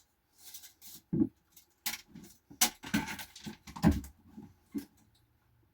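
A run of irregular knocks, taps and rattles as things are handled and moved about, loudest about four seconds in.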